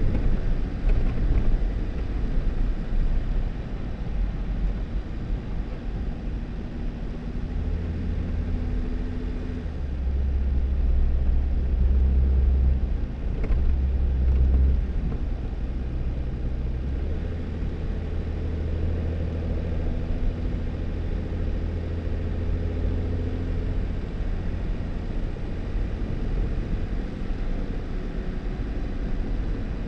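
2018 Jeep Wrangler driving on a snow-covered dirt road: a steady low rumble of engine and tyres, growing louder about ten seconds in and easing back about five seconds later.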